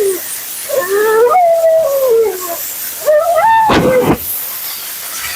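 Siberian husky howling and 'talking': a long call that rises then slides down in pitch, a shorter rising call, and a harsh, rough-edged yelp about four seconds in. A steady high hiss runs underneath.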